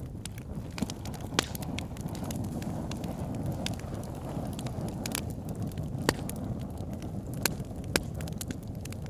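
Wood fire burning in a fireplace: a steady low rush of flames with irregular sharp crackles and pops, a few of them louder.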